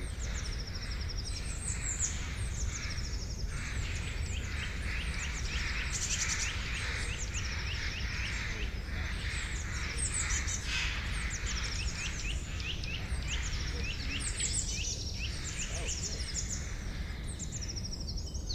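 A chorus of songbirds in a forest, several birds overlapping in rapid series of short, high, falling chirps, over a steady low rumble of background noise.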